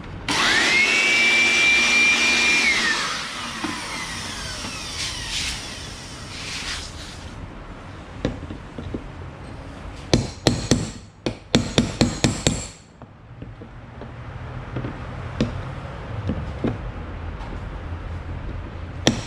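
Hammer blows on the stuck metal lock ring of a GM truck's in-tank fuel pump module, struck to turn it loose: a quick run of sharp metallic strikes about ten seconds in, with scattered knocks before and after. Near the start a machine whine rises, holds about two seconds and winds down.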